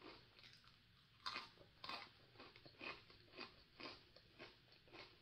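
Someone biting into and chewing a crisp cookie: two sharper crunching bites just over a second in, then steady crunchy chews about twice a second.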